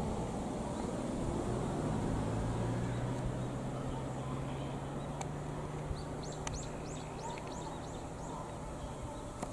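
Outdoor background noise with a steady low hum, and a bird calling a quick run of about ten short, high, falling chirps, about four a second, from about six seconds in.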